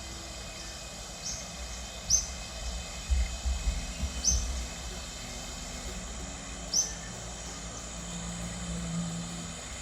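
A small bird giving single short, high chirps every second or two over a steady outdoor hiss. A low rumble rises briefly about three to four and a half seconds in.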